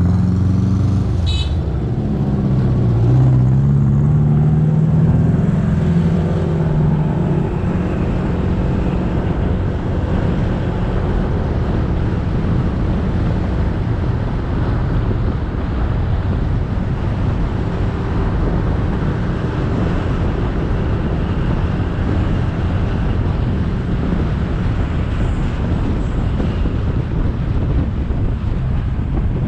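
Motorcycle engine heard from the rider's seat, its pitch rising and falling with the throttle for the first several seconds, then buried under a steady rush of wind on the microphone and road noise. A short high beep sounds about a second in.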